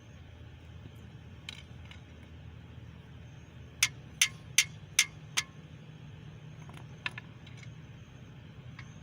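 A hammer striking metal: five sharp blows in quick succession, about two and a half a second, with a few lighter taps and clicks around them.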